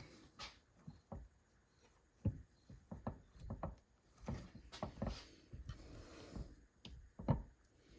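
Transmission parts being handled and fitted by hand: faint, irregular knocks, clunks and clicks, the loudest two about two seconds in and near the end.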